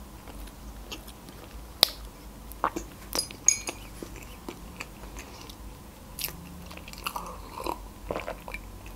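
Close-miked chewing of a mouthful of layered cake, with scattered short wet mouth clicks and smacks.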